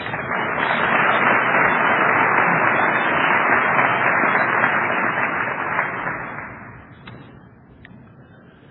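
Audience applauding, starting at once and dying away after about six or seven seconds.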